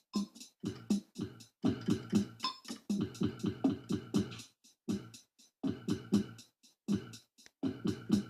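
Electronic music keyboard being played: short, choppy repeated notes over drum-machine-like beats, in rhythmic clusters with brief gaps.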